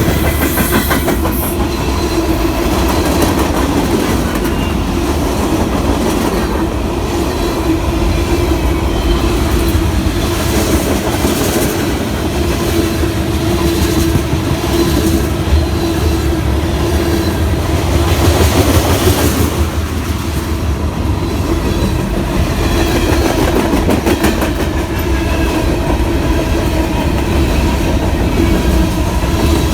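Norfolk Southern freight train's cars rolling past close by, wheels clicking over the rail joints, with a steady squeal held throughout and a short swell in loudness about two-thirds of the way in.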